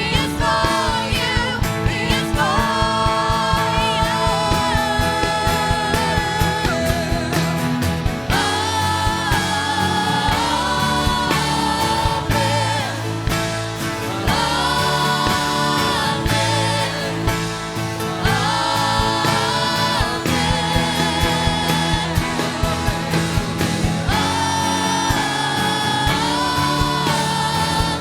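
Contemporary worship music: a band with drums playing under singing voices that hold long melody notes.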